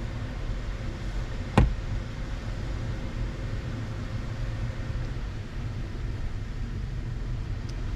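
Steady low rumble of beach surf, with one sharp knock about one and a half seconds in.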